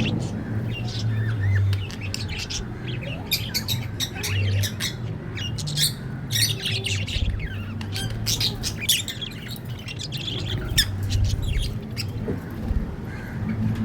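Budgerigars chirping and squawking, many short overlapping calls, busiest in the middle, over a low steady hum.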